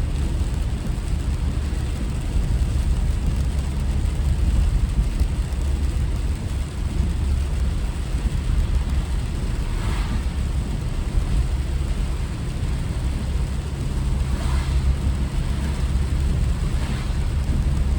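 Steady low rumble of a car driving, road and engine noise, with three brief higher-pitched sounds partway through and near the end.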